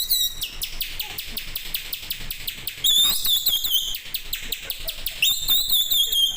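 A man imitating birdsong with his mouth: fast trains of high, falling chirps, about eight a second, broken by two held whistled notes about three and five seconds in.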